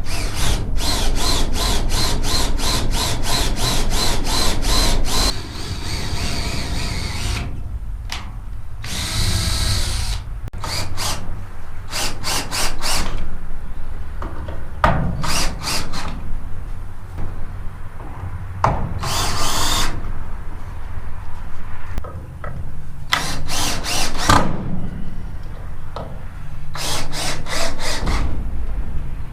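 Power drill driving screws into the sheet-metal siding in repeated bursts, with a fast even rattle for the first few seconds and then short runs of a second or two separated by brief pauses.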